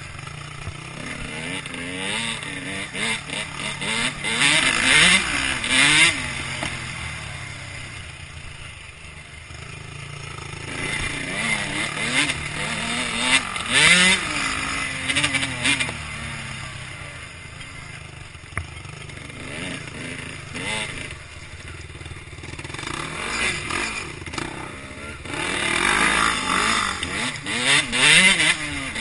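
Motocross bike engine revving up and down as it is ridden over a rough track, with bursts of rushing noise a few seconds in, around the middle and near the end.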